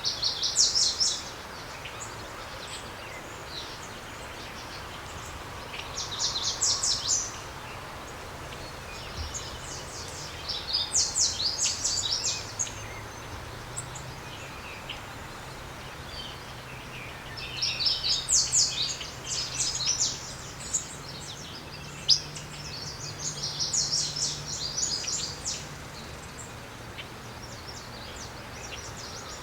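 Small birds chirping in quick twittering bouts of a second or two, about five times, over a steady background hiss.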